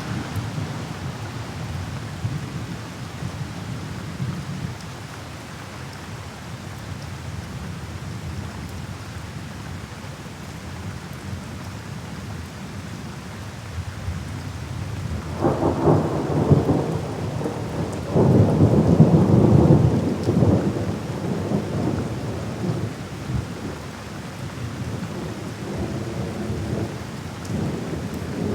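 Rain falling steadily while thunder rumbles low and continuously. Past the middle come two louder, crackling rolls of thunder, the second the loudest.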